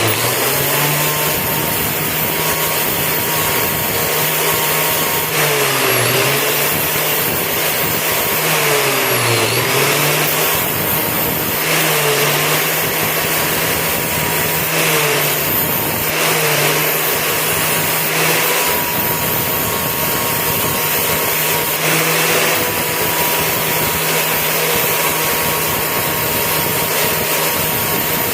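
Electric power tool motor running steadily with a grinding hiss. Its hum sags in pitch and comes back up several times, about six and nine seconds in and again later.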